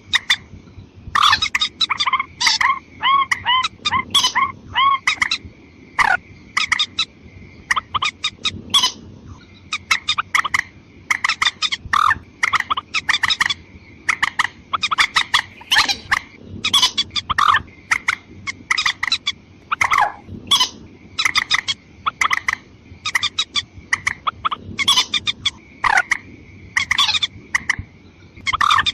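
Watercock (mandar ayam-ayaman) calls played as a lure: long, dense runs of short, sharp notes repeating without a break, with a steady thin high tone underneath.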